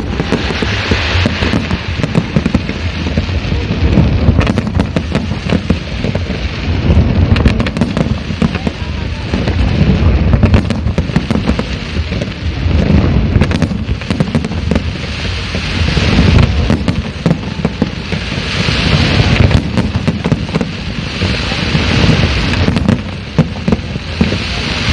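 Fireworks display: a dense run of bangs and booms over a continuous low rumble, with bursts of high crackling several times.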